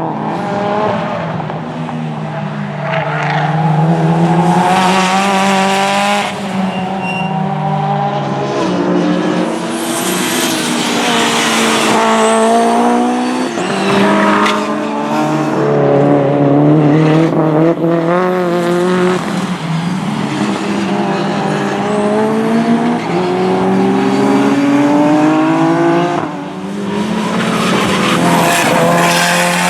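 Race car engines on track, revving up and dropping back again and again through gear changes, with tyre squeal in places.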